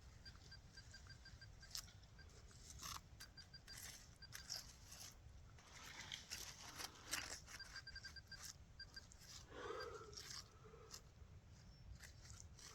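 Faint crunching and scraping of digging in wet, mucky soil, with a metal detector pinpointer's rapid beeping coming and going in short runs.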